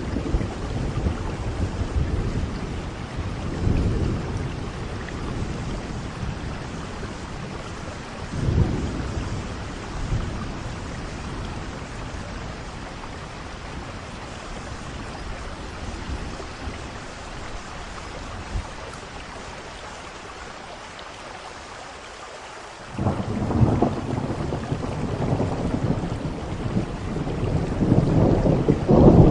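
Steady rain with rolling thunder: several low rumbles in the first ten seconds, a quieter lull, then a sudden loud crack of thunder about three-quarters of the way through that rumbles on and grows louder near the end.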